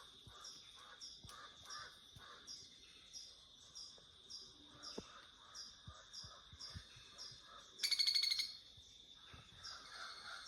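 Rainforest birds and insects: a steady high-pitched insect drone under a short chirp repeated about twice a second, then one loud harsh bird call about eight seconds in.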